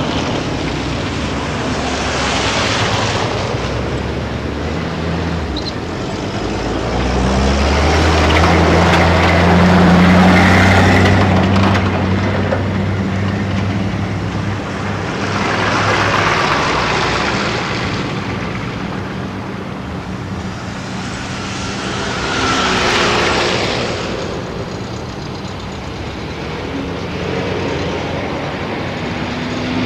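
Motor vehicles passing one after another, tyre and engine noise swelling and fading about four times; a low engine hum is strongest about eight to twelve seconds in.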